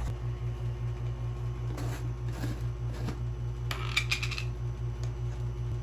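Steady low, evenly pulsing hum, with a few light clicks and a brief bright rustle or clatter about four seconds in.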